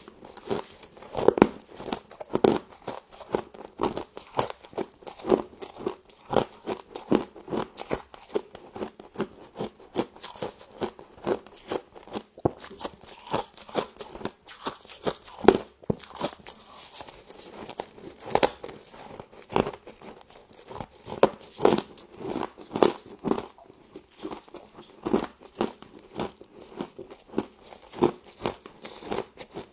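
Frost being bitten and chewed close to the microphone: an irregular, continuous run of crisp crunches.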